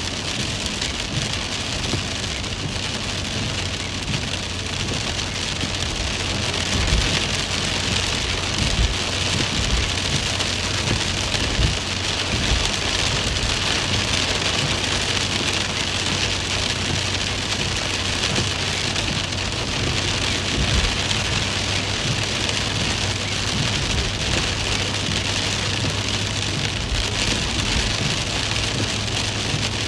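Steady rain falling, a dense even patter, with a steady low hum beneath it.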